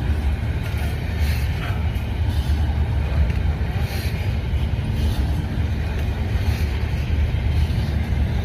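Long CPKC freight train rolling past with a steady, low rumble.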